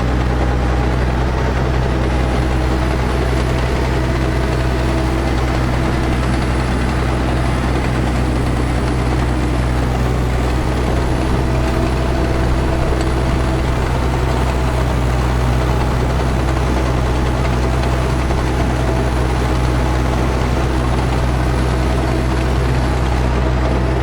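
Restored International Harvester TD-7C bulldozer's diesel engine running steadily, with the engine fan turning.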